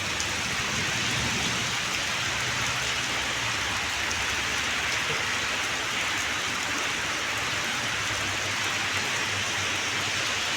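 Heavy rain falling steadily and hard, an even hiss of rain on surfaces.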